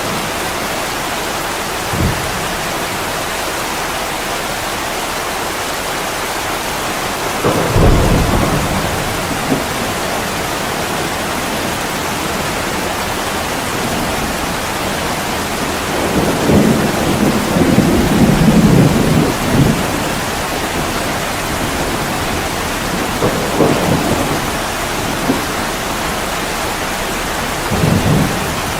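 Heavy rain pouring steadily, with low rolls of thunder several times; the longest comes about halfway through.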